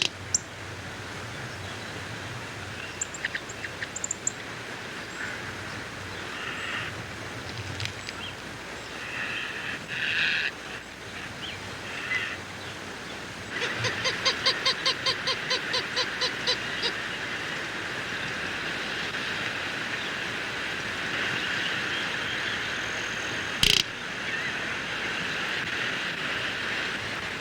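Outdoor ambience with scattered bird calls. About halfway through comes a rapid, evenly spaced run of about a dozen short pitched notes, roughly four a second. A single sharp click follows later.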